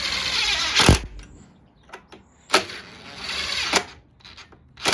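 Hand ratchet wrench tightening the carburetor mounting bolts on a Briggs & Stratton mower engine: two runs of rapid ratchet clicking, each about a second long and ending in a sharp click, and another click near the end.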